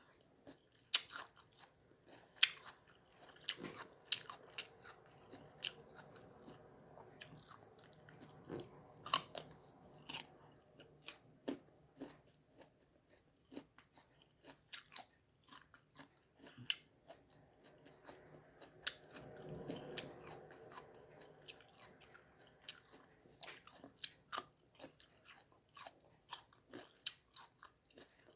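Close-up eating of a crunchy unripe mango: irregular crisp bites and crunches with wet chewing clicks.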